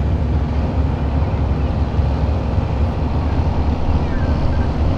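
Tractor engine running loud and steady under load, pulling the sled.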